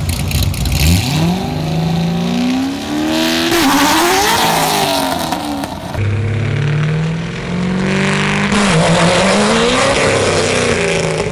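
C6 Corvette's V8 launching hard off the drag-strip line, its revs climbing, dipping briefly, then climbing again as it pulls away. It is heard twice, in two takes. The second take opens on the engine held at steady high revs before it launches.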